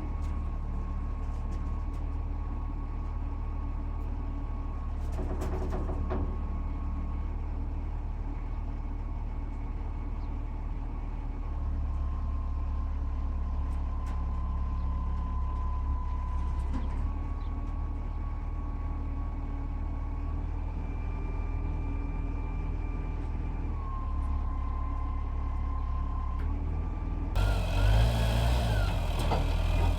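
A heavy truck's engine running steadily at low speed, with a faint wavering whine above the low hum; about 27 seconds in the sound becomes louder and busier.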